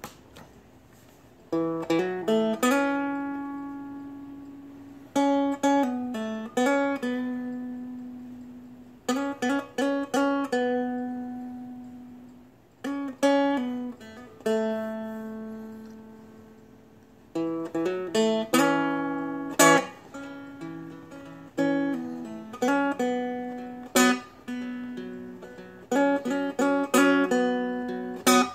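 Seagull Merlin, a small four-string fretted dulcimer, being played: short runs of plucked melody notes every few seconds, each ending on a held note that rings out and fades over its sounding drone strings.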